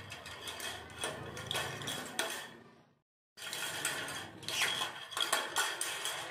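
Agitated lovebird in its cage: rapid irregular clicking and rattling, like a beak working against wire or a metal dish, with one short falling chirp about four and a half seconds in. The sound cuts out for a moment near the middle.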